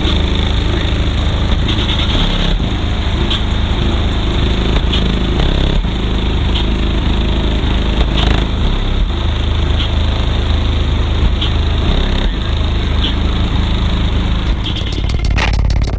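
Car-audio subwoofers playing heavy bass at very high level, loud enough to distort the microphone into a steady buzz. Near the end a fast rattle joins in.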